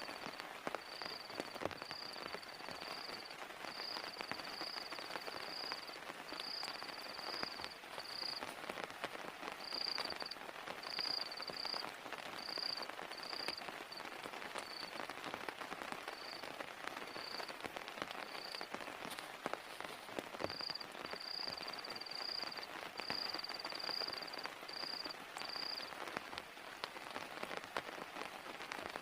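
Steady rain falling, with sharp taps of single drops throughout. Over it, a high-pitched chirping call repeats in short pulses, grouped in runs, and stops a few seconds before the end.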